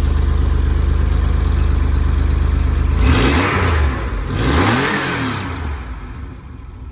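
Porsche 964's air-cooled flat-six, running on a new exhaust soon after a cold start. It idles, then is blipped twice, the pitch rising and falling each time, and settles back to a quieter idle near the end. The new exhaust gives it a note described as pretty airy.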